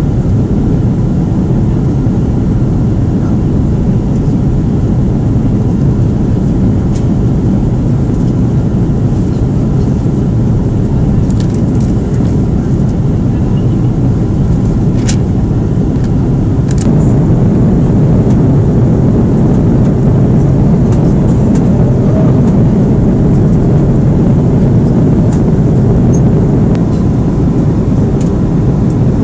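Steady loud roar of an Airbus A330's engines and rushing air heard inside the passenger cabin, stepping up slightly in level about halfway through, with a few faint clicks.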